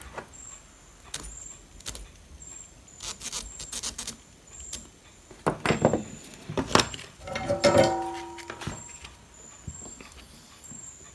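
Clicks, taps and clatter of small hard objects being handled and set down, with a short metallic ring near the middle that dies away within about a second.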